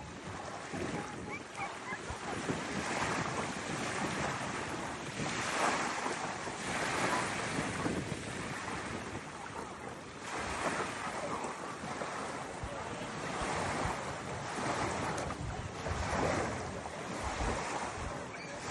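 Sea waves washing in, swelling and ebbing every few seconds, with wind buffeting the microphone.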